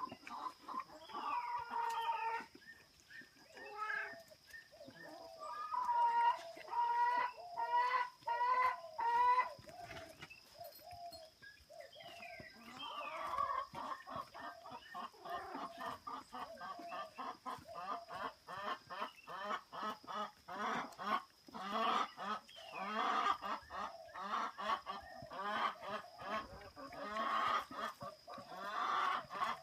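Several chickens clucking and crowing, their calls overlapping and growing denser in the second half, over a thin steady high tone.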